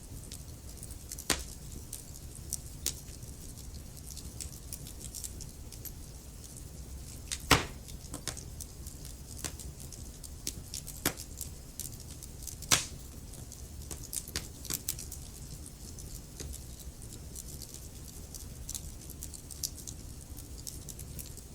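Wood fire crackling in a fireplace: irregular sharp pops and snaps over a low steady rumble, with a few louder pops standing out.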